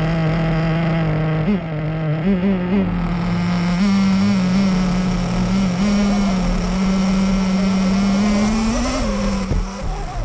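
Nitro RC car's small glow-fuel engine running, its throttle blipped several times about two seconds in, then held at steady higher revs with a brief rise near the end before dropping back.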